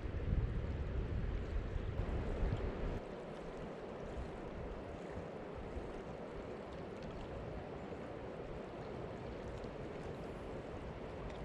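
River water rushing steadily, with wind buffeting the microphone for about the first three seconds.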